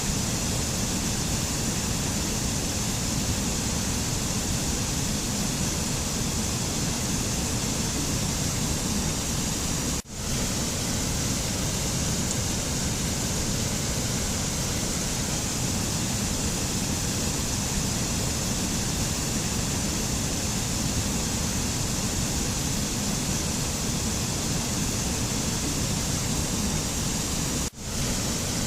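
A steady, even rushing noise from a mountain nature-sound recording. It drops out sharply for a split second twice, about ten seconds in and near the end, like the joins of a looped track.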